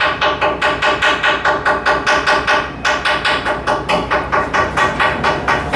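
Steady, rapid hammering, about four ringing blows a second, from work going on at the dock.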